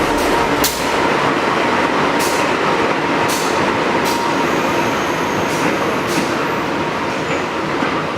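Moving passenger train running on the rails: a steady rumble and hiss, with a faint steady tone and short sharp clacks at irregular intervals.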